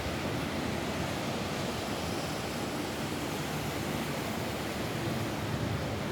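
Steady rain falling on a roof, an even, unbroken hiss and rumble with no single drops standing out.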